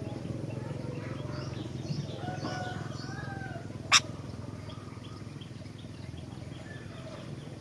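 Sooty-headed bulbul (kutilang) singing short chirps and gliding whistles over a steady low buzz, with one sharp loud click about four seconds in.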